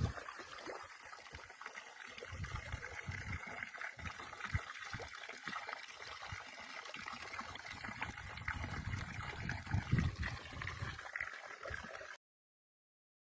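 Stream water gurgling and trickling steadily, until the sound cuts off suddenly near the end.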